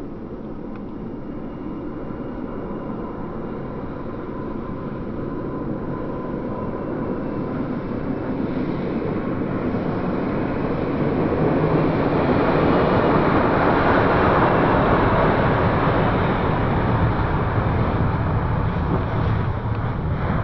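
A vehicle approaching on a road, its engine and tyre noise growing steadily louder over several seconds to a peak a little past the middle, then easing slightly.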